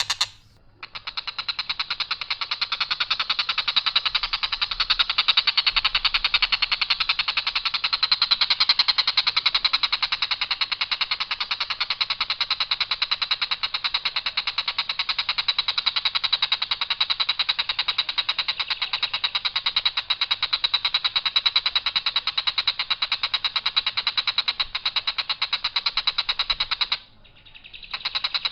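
Tengkek buto kingfisher calling with a long, harsh, very fast rattling trill on one unvaried line, pausing briefly near the end before starting again.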